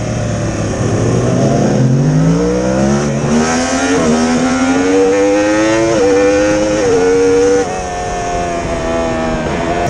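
Race motorcycle engine heard onboard, accelerating hard out of a slow corner in first gear and rising in pitch through several quick upshifts. Near the end the loudness drops and the pitch falls as the throttle is closed. Wind rushes over the microphone throughout.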